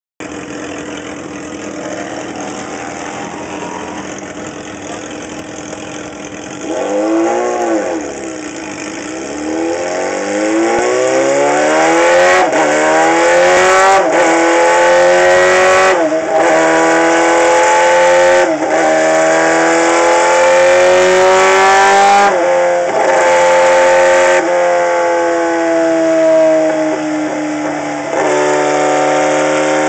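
Yamaha R6 sportbike's 600 cc inline-four engine on a dyno: one quick rev that rises and falls, then a run climbing in pitch through several gears with a short dip at each shift, dropping to a lower steady speed near the end.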